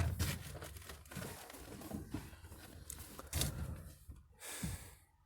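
Irregular rustling and crackling noise with several sharp knocks, and a short hissing burst near the end before it cuts off abruptly.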